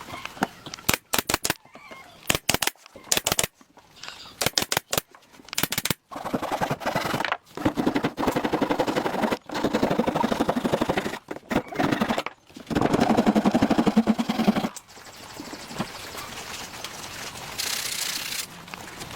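Clusters of sharp, rapid knocks, like quick blows on wood, followed from about six seconds in by a buzzing machine running in long stretches with short breaks, then a softer hiss near the end.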